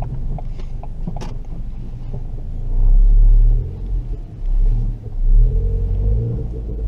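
Turbocharged Ford Fiesta ST with a Revo RT330 turbo upgrade and its rear silencer fitted, accelerating, heard from inside the cabin. It is a deep engine rumble that surges loudly about three seconds in, then twice more in quick succession, with short dips between.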